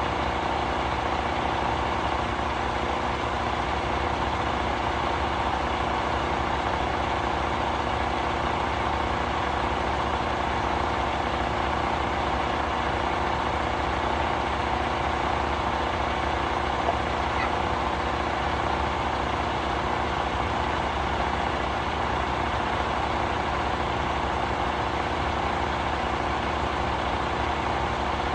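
Semi-truck diesel engine idling steadily, an even, unchanging drone.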